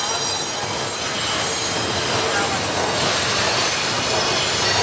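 Double-stack intermodal freight train rolling past through a curve, its steel wheels squealing against the rails in steady high-pitched tones over the continuous rumble of the cars.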